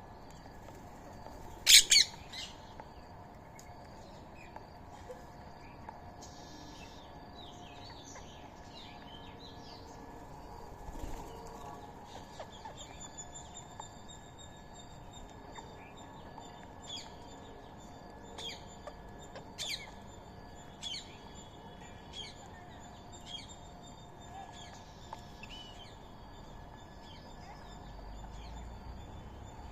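Birds calling and chirping: a loud, shrill double call about two seconds in, then scattered short chirps over a faint steady background hum.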